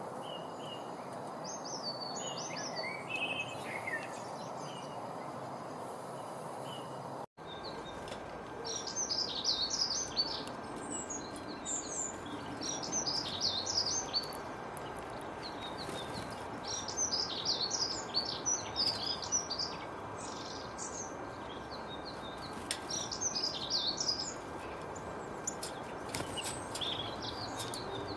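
Small songbirds chirping and twittering in repeated bursts of high phrases over a steady background hiss. A brief dropout comes about seven seconds in, and after it the song is denser and louder.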